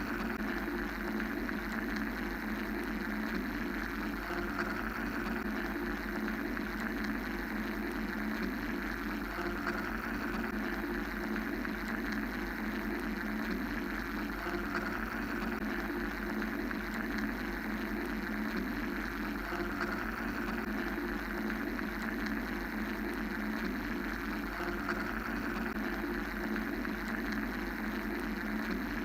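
Steady mechanical white-noise drone: a low hum under a higher hiss that slowly swells and eases every several seconds, with no breaks or sudden sounds.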